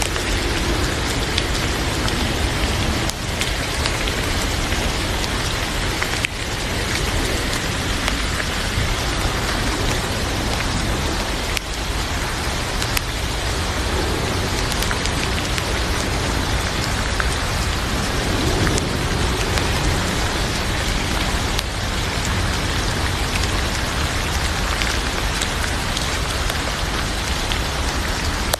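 Heavy rain falling steadily, an even hiss with a few scattered sharp ticks.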